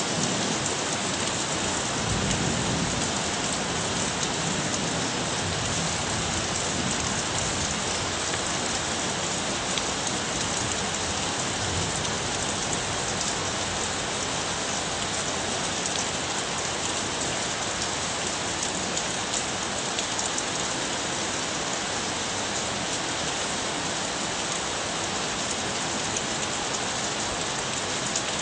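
Heavy rain falling steadily onto floodwater, a dense even hiss.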